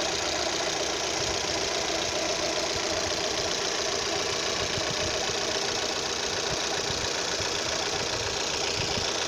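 Opel Z18XER 1.8-litre four-cylinder engine idling steadily with an odd knocking noise, which the owner puts down to the camshaft adjuster (cam phaser). The noise occurs only at idle.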